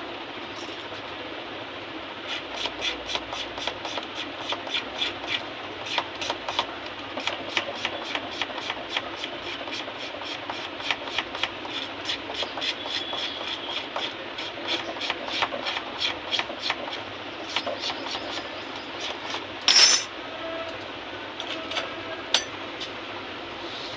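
Quick hand scraping strokes, about three or four a second, starting and stopping in runs, with one sharp knock near the end.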